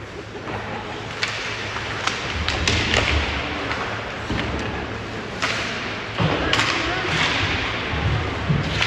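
Ice hockey play in a rink: sharp knocks and thuds of puck, sticks and boards at uneven intervals, with voices in the background.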